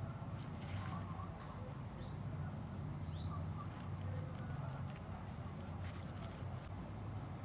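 A bird gives short, falling chirps three times, a second or two apart, over a steady low hum and a few faint clicks.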